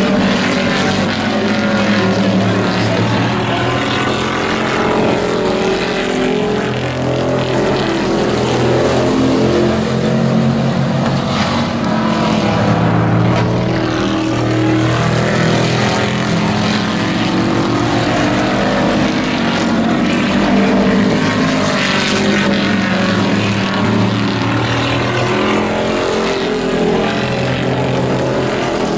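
Several racing trucks' engines running together in a race, their pitch rising and falling over and over as they accelerate and lift off, with no break in the noise.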